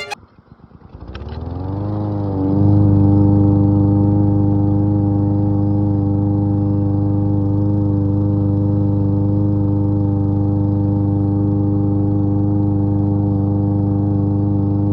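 Lawn mower engine coming up to speed, its pitch rising over about two seconds, then running steadily at a constant speed.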